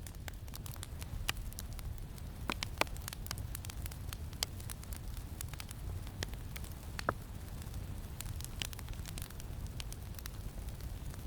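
Campfire crackling: irregular snaps and pops of burning wood, a few of them sharper and louder, over a steady low rumble of wind.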